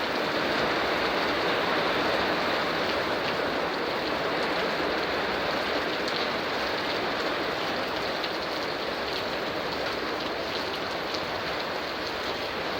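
Heavy downpour during a thunderstorm: a steady, dense hiss of rain, with a few individual drops ticking now and then.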